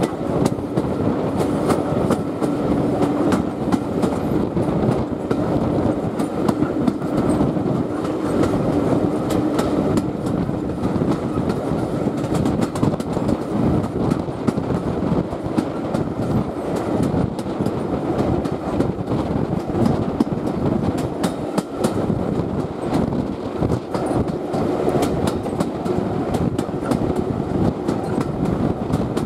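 Heritage railway coach running along the line, heard from an open carriage window: a steady rumble of wheels on rail with the clickety-clack of rail joints.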